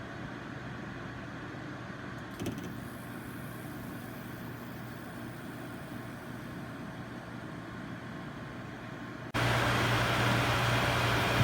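SereneLife portable air conditioner running with a steady hum and a light click about two and a half seconds in; about nine seconds in its fan noise jumps suddenly to a much louder, steady rushing.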